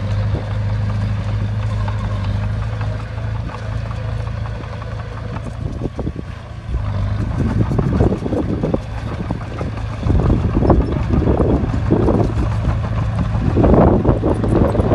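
Bulldozer's diesel engine running with a steady hum. From about halfway through, a series of rough, noisy surges comes and goes every second or so.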